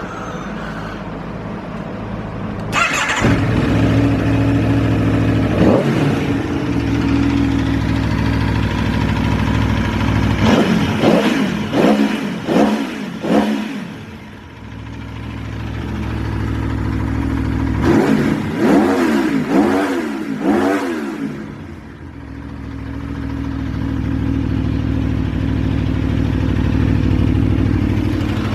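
Aprilia Tuono V4R APRC's V4 engine with an Akrapovič exhaust starting up about three seconds in and settling into idle. It is then blipped in two clusters of about four quick revs each, dropping back to idle after each cluster.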